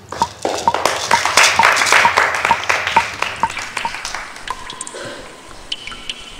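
Pupils' home-made rain music on classroom percussion: a steady pinging beat a little over twice a second under a swishing rattle that swells and fades. Then it gives way to a few held, ringing chime-like notes near the end.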